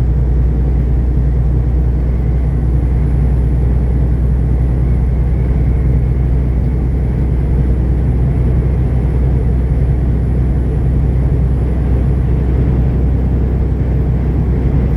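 Semi truck driving at highway speed, heard from inside the cab: a steady, loud low drone of engine and road noise.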